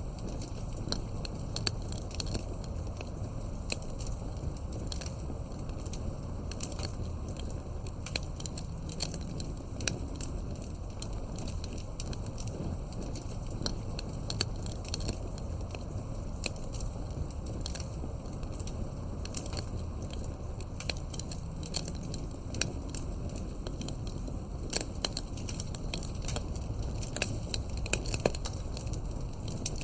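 Campfire burning with a steady low rumble and frequent irregular sharp crackles and pops of burning wood, a few louder pops near the end.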